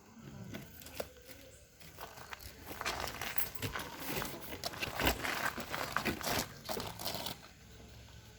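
Close rustling and crinkling noise, like something being handled right at the microphone. It is densest for a few seconds in the middle and quieter at either end.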